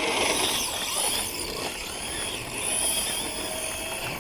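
Traxxas Slash two-wheel-drive RC truck's electric motor whining as it drives, its pitch rising and falling with the throttle.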